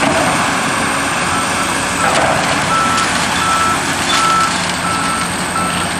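Backup alarm on a demolition machine beeping in a regular string, a little under two beeps a second, starting about a second in, over the steady noise of heavy equipment working.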